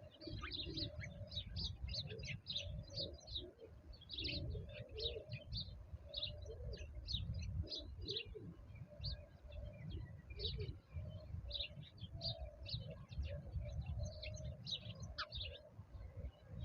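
Small birds chirping in quick, dense succession, with lower cooing calls underneath, over a steady low rumble.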